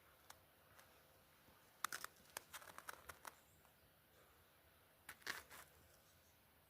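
Near silence broken by two clusters of short, sharp clicks and crackles, one about two seconds in and a shorter one about five seconds in.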